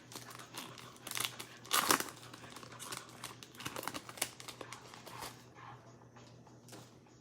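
Plastic wrapper of a pack of trading cards crinkling and tearing open, in a run of sharp crackles with the loudest about two seconds in, easing off near the end.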